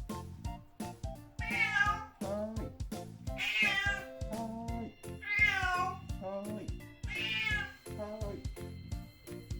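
A domestic cat meowing four times, each call about a second long and falling in pitch, over background music.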